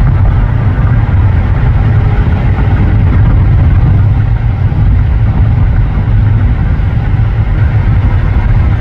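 Steady low rumble of tyre and wind noise from a car travelling at freeway speed.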